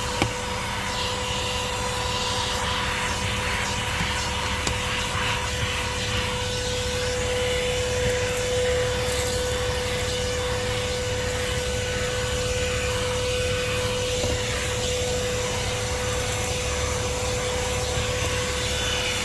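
Corded car vacuum cleaner (TWC 01) running steadily, a constant rushing sound with a steady whine.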